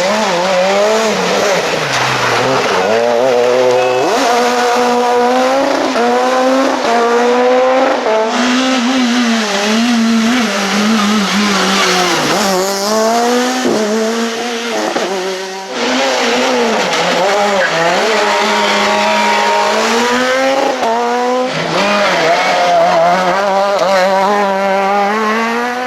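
Super 2000 rally car's naturally aspirated two-litre four-cylinder engine revving hard on a stage, its note climbing and dropping again and again through gear changes. The sound breaks off abruptly a few times and picks up again.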